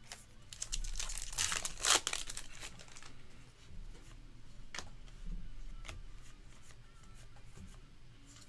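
A trading card pack's wrapper being torn open and crinkled, a dense crackle lasting a couple of seconds, followed by a few light ticks as the cards are handled.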